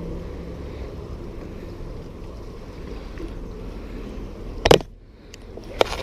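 Steady low rush of fast creek current, broken by a sharp knock about four and a half seconds in and a lighter click about a second later.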